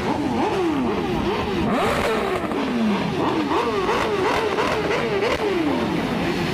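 A car engine is revved over and over in quick blips. Its pitch jumps up and drops back about two to three times a second. Around two seconds in and again near the end, longer revs fall away more slowly.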